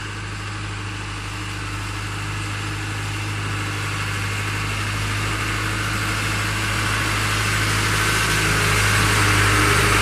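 A steady engine hum with a low drone and a noisy hiss, slowly getting louder.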